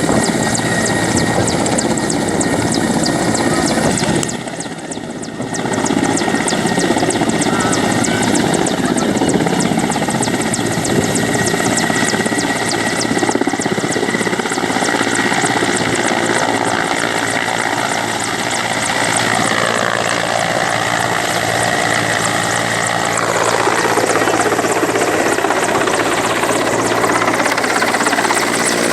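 Helicopter running close by, its rotor blades chopping rapidly and steadily. It dips briefly about four seconds in, then comes back at the same level.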